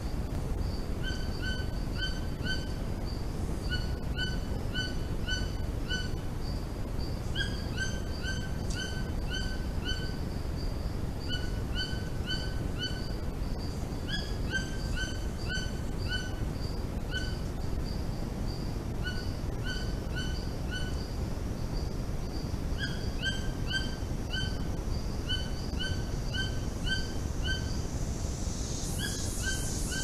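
A bird calling in quick runs of four or five short, clipped notes, a new run every second or two, over a steady low background hiss. A brief hiss-like burst comes near the end.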